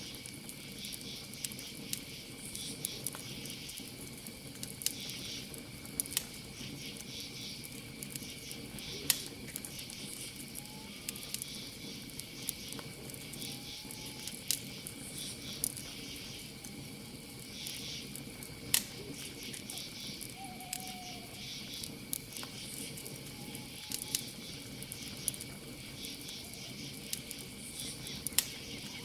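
Campfire crackling, with sharp pops every second or two, over crickets chirping in pulsing bursts and a steady high trill. A few faint, short calls are heard about midway.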